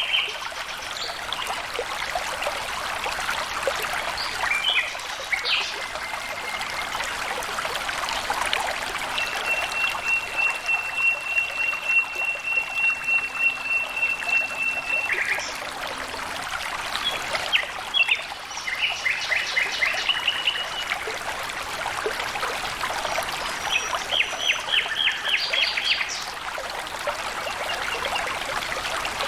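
Water trickling and splashing steadily, with wild birds calling over it: a long, even whistled note near the middle and quick runs of repeated chirps later on.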